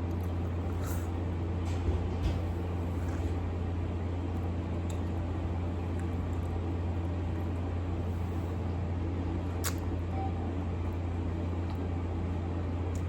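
A steady low hum runs throughout, with a few faint clicks as someone bites and chews a freshly made tanghulu candied grape.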